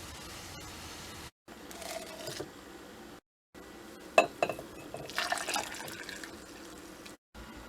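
Liquid being poured into a glass in a few short clips, the pour's pitch rising slightly as it fills, with sharp clinks of glass about four seconds in and a splashy hiss after.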